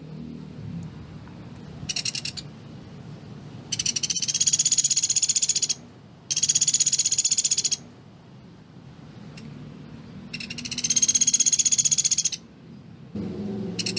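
Pelatuk beras woodpecker calling in rapid, dense rattling trills: a short burst, then three longer bursts of about two seconds each, separated by pauses, and another starting near the end. A faint low hum runs underneath.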